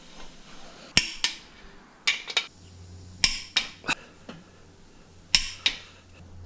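Sharp metallic clicks in small groups of two or three from a socket wrench torquing the main bearing cap bolts of a Toyota 22R engine to 76 ft-lb.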